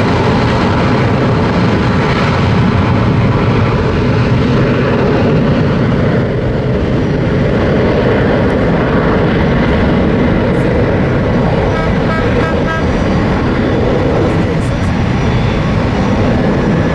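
Boeing 767 jet engines at high power on the takeoff roll, a loud, steady jet noise. About twelve seconds in, a trolley horn sounds briefly in a few short repeated notes.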